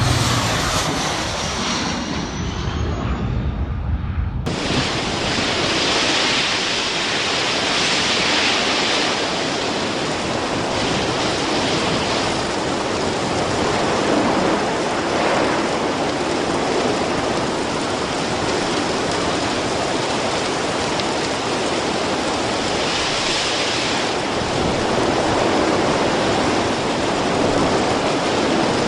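An aircraft engine drone with a rising whine, cut off suddenly about four and a half seconds in by a loud, steady rushing noise that holds to the end.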